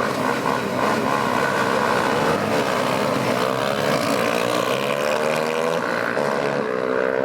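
Vehicle engine running steadily, its pitch climbing slowly through the second half.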